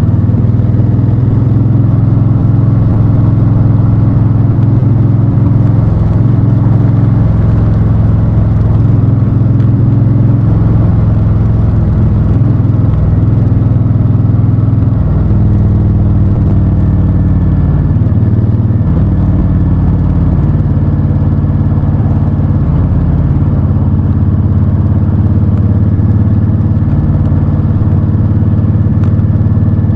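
Honda Fury's 1312 cc V-twin engine running while the motorcycle is ridden, its low note stepping up and down several times with throttle and gear changes.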